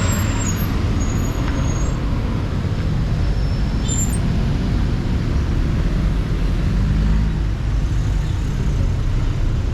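Heavy road traffic: a steady, loud stream of vehicles passing close by on a busy road.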